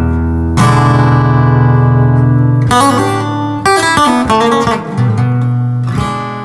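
Acoustic guitar playing the closing bars of a blues song: a strummed chord left to ring, a quick run of picked notes, then a final chord that rings out and slowly fades.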